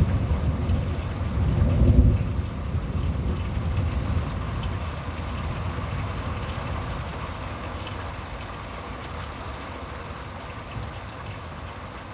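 Thunder rumbling, loudest about two seconds in, then slowly dying away over steady rain.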